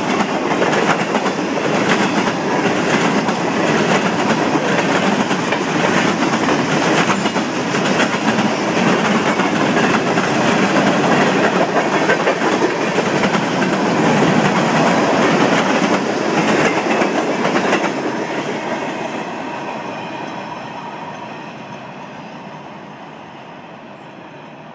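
Freight cars of a Norfolk Southern mixed freight train rolling past at track speed, steel wheels clicking over the rail joints. The sound fades away steadily over the last several seconds as the train moves off.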